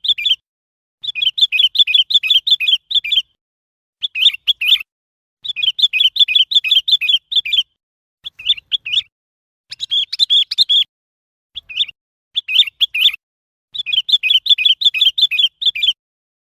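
Sooty-headed bulbul calling: runs of quick, repeated chirping notes, about six a second, in phrases of half a second to two seconds separated by short pauses.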